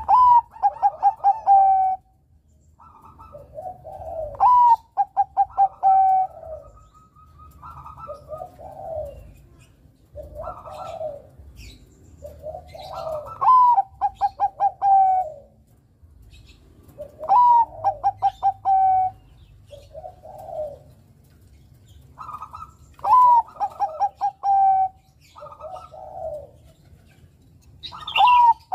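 Zebra dove (Bangkok-type perkutut) singing its cooing song six times. Each phrase is a sharp rising note, then a quick run of short staccato notes, then a long falling coo. Softer, lower coos come between the phrases.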